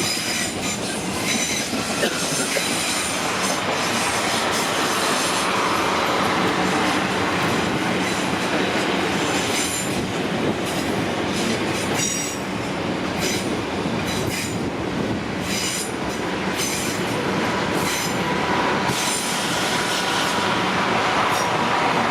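Electric passenger train running through the station, a steady rumble with high-pitched squeals from the wheels and repeated clicks as they cross rail joints.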